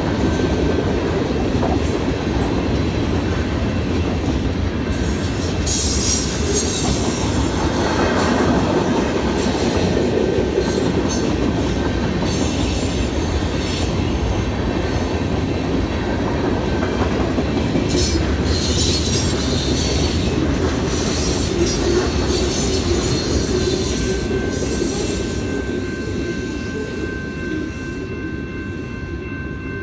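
CN freight train passing at speed: continuous rumble and clatter of freight cars over the rails, with several bursts of wheel squeal. Near the end the train noise fades and the steady ringing of the grade-crossing bell comes through.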